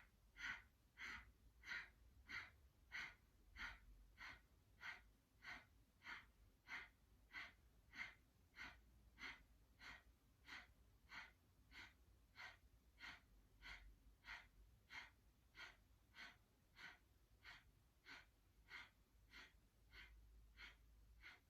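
Kapalbhati breath of fire: a steady run of short, forceful exhalations through the nose, about three every two seconds, each a quiet sharp puff of breath, the round of about thirty stopping near the end.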